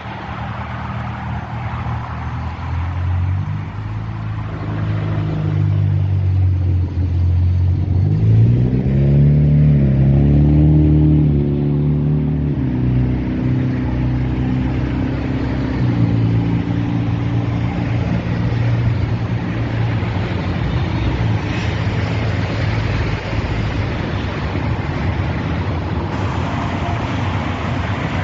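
A motor vehicle's engine running, revving up about eight seconds in and easing back down a few seconds later, with road noise throughout.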